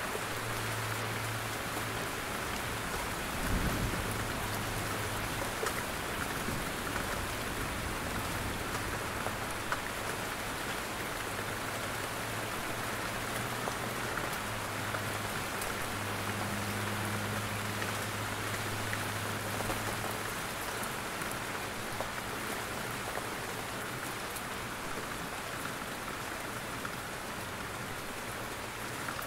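Steady rain falling in a forest, a constant hiss with scattered individual drops ticking as they fall from the trees. A brief low thump comes about three and a half seconds in.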